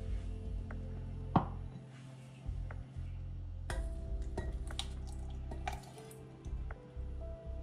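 A spoon or other utensil clinking and tapping against dishes or glass, with one sharp click about a second and a half in and a busier run of clinks in the second half, over soft background music.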